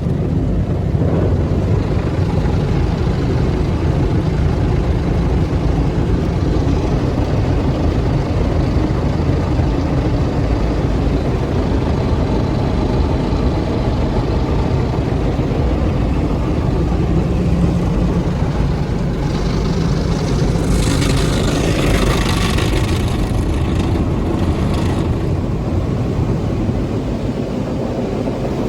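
Car wash machinery running with a steady low rumble, joined by a hissing rush of spray for several seconds about twenty seconds in.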